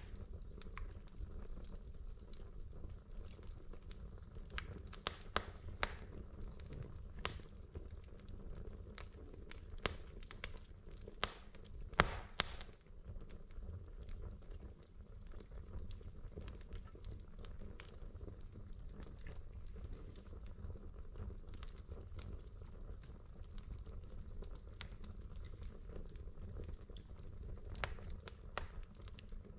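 Wood fire burning in a fireplace: a steady low rumble of flames with scattered crackles and pops of burning logs, a cluster of louder pops around five seconds in and again near twelve seconds.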